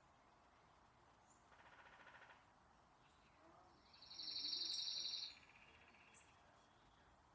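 Birds singing: a short rattling trill about a second and a half in, then a louder, high rapid trill lasting about a second and a half near the middle, with a few faint high chirps.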